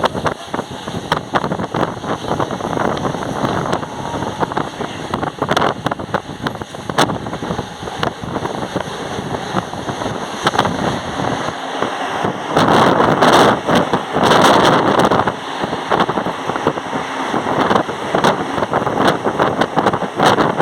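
Mumbai suburban local train running, heard from inside the carriage: a steady rush of wheel and wind noise with scattered clacks from the rails. It swells louder for about three seconds past the middle.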